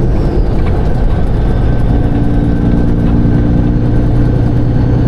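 Semi truck's engine and road noise heard from inside the cab while cruising on the highway, a steady low drone; a second steady droning note joins from about two seconds in for a couple of seconds.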